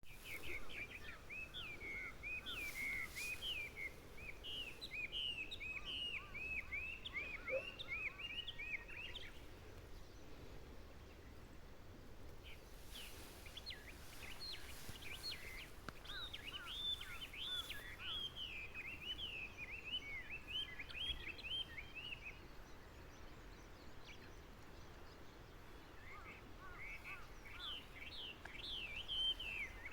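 A songbird singing long, rambling songs of quick, varied chirping notes, in three bouts separated by short pauses, over a steady background hiss.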